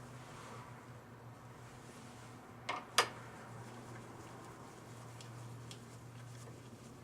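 Small metal parts and a hand tool clicking while a distributor is taken apart: two sharp clicks about three seconds in, the second louder, and a few faint ticks, over a steady low hum.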